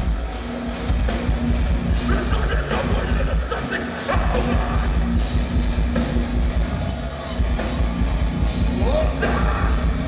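Metalcore band playing live: heavy distorted guitars, bass and drums at full volume, with the low end cutting out for a moment about four seconds in.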